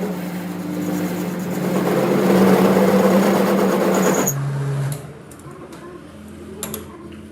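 A workshop machine's electric motor running steadily, a hum with a noisy hiss of cutting or grinding on metal. It cuts off abruptly about four seconds in, leaving a quieter stretch with a few light clicks.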